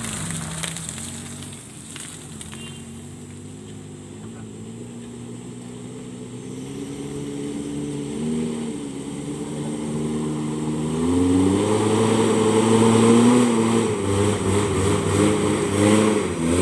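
Motor vehicle engine running under load at low speed, its pitch repeatedly rising and dropping as the throttle changes; from about eleven seconds in it gets louder as it revs harder.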